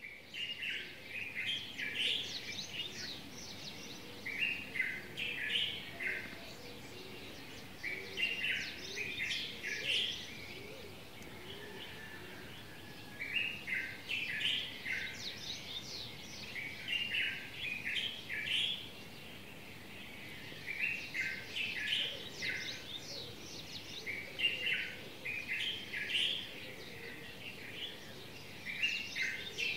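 Songbirds in a morning chorus, singing short phrases of quick, high chirps that come back every few seconds over a faint steady background.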